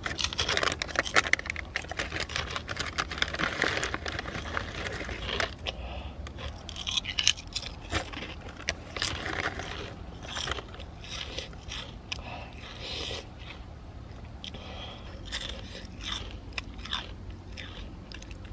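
A person chewing crunchy food close to the microphone: many crisp crunches, dense for the first five or six seconds, then sparser and softer bites.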